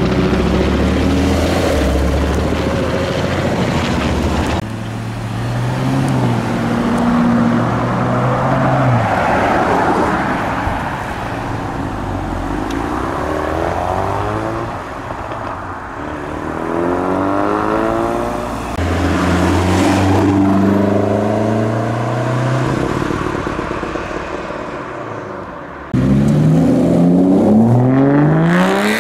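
Several performance cars pull away one after another, each engine revving up through the gears and then fading as it goes by. Near the end an Aston Martin V12 accelerates away with a steeply rising pitch.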